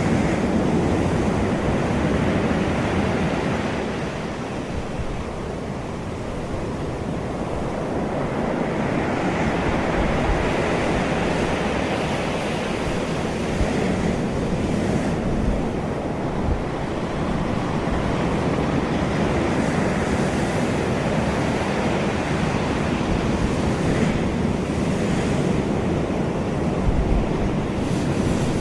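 Sea waves washing onto the shore: a continuous surf wash that swells and eases every several seconds, with a few brief low rumbles of wind on the microphone.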